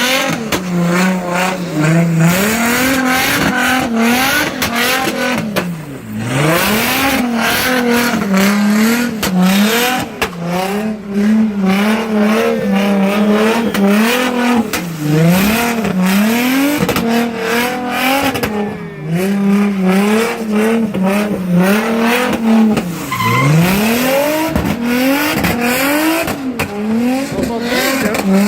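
Car engine revving hard and held at high revs, repeatedly dropping and climbing back up, with tyres squealing over it, as in a burnout or donuts.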